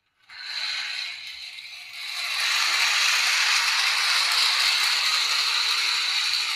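Miniature train's small motor and gearing running: a steady mechanical whirring rattle, which grows louder about two seconds in and then holds even.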